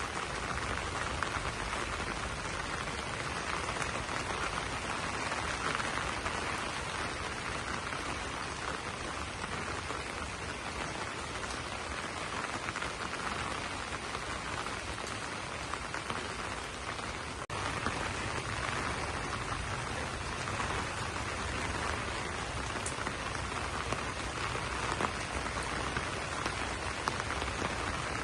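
Steady rain falling on banana leaves, an even wash of drops with a brief dip a little past halfway.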